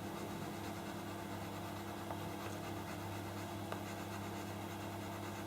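Faint scratching of a white pastel pencil making short strokes on paper for scruffy feather ends, over a steady low hum.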